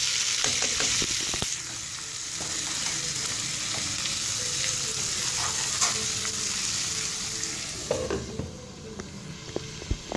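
Chicken pieces, onion and tomato sizzling in hot oil in a non-stick kadhai, with the scrape and clicks of a spatula stirring them. About 8 seconds in a glass lid clacks onto the pan and the sizzle turns muffled.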